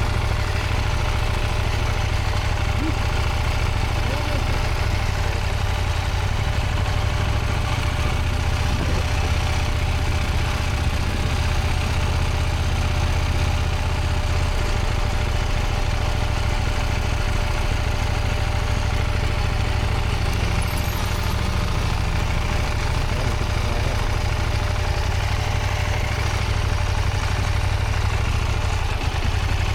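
Motorcycle engine running steadily at low revs, an even low rumble with little change in pitch.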